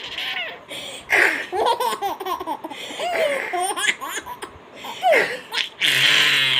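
A baby laughing in repeated short bursts, with high gliding squeals and breathy outbursts.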